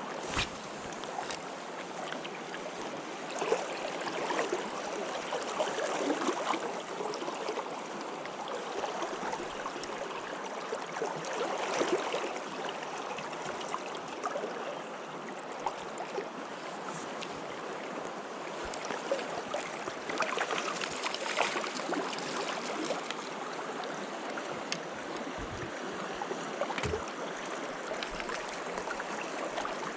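Flowing water of a trout stream: a steady rushing noise that swells and eases now and then, with a few short clicks.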